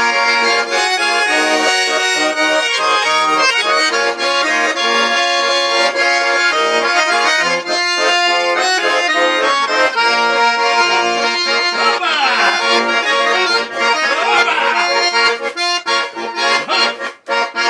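Accordion playing an instrumental break between verses of a Russian song: a sustained melody over chords, with quick runs, turning to short clipped chords near the end.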